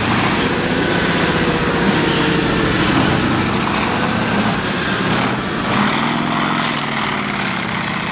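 Engine of a competition pulling tractor running loud, its pitch shifting up and down a couple of times.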